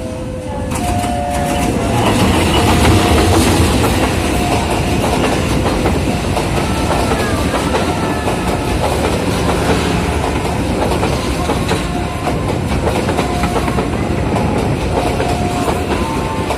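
Train passing through the station: a loud, steady rumble with wheels clattering over the rail joints, and short high tones now and then.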